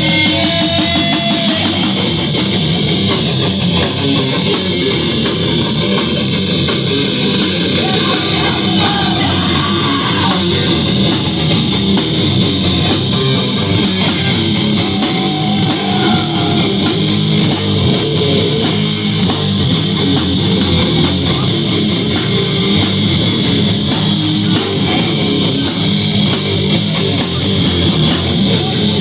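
Live heavy rock band playing loud: distorted electric guitar, bass and drum kit, heard as a loud, dense, steady wall of sound through a small recorder.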